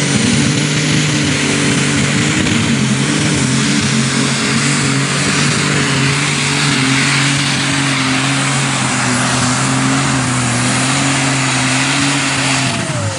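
Unlimited super stock pulling tractor, an International, making its run at full throttle. The turbocharged engine holds a steady, loud pitch under load with a high turbo whine over it, then drops off near the end as the run finishes.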